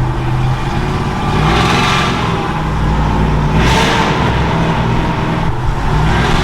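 Chevy C10 pickup's engine running loud under throttle, swelling twice, about a second and a half in and again near four seconds.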